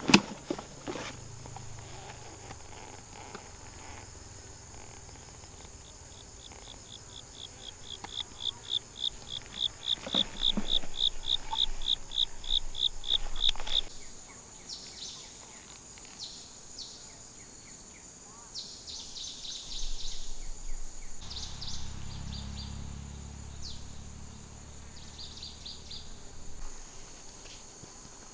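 Forest insect and bird calls: a high, rapid pulsing call of about four pulses a second builds for several seconds and cuts off suddenly, followed by scattered short high calls over a steady high hiss. A low hum comes in for several seconds near the end.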